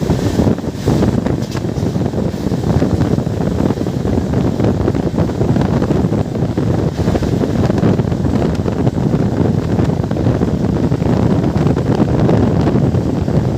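Loud, steady wind buffeting the microphone over the low rumble of a moving train.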